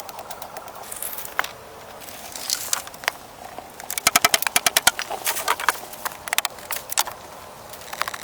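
Sharp clicking and knocking: scattered single knocks, and a quick run of clicks, about eight a second, around the middle.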